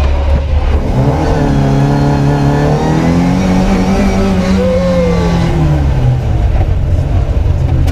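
Classic Mini rally car's engine under hard acceleration: revs climb about a second in and hold, with a brief dip and rise in pitch around five seconds in, over a steady low rumble.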